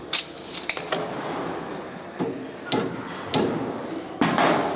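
A series of about seven uneven metal knocks, a hammer tapping the bare rear axle housing to nudge it into position under the frame; the last strike, near the end, is the loudest and rattles on briefly.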